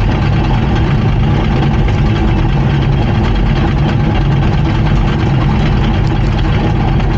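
Komatsu D39PX bulldozer's diesel engine running steadily and loudly, with no change in pitch or level.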